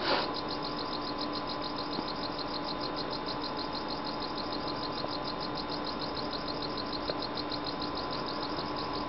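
Crickets chirping in a rapid, even, high-pitched pulse, about eight chirps a second, over a steady hum, with a brief rustle right at the start.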